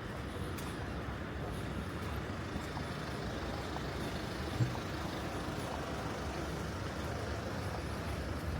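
Steady city street noise, a low traffic rumble, with one brief low thump about halfway through.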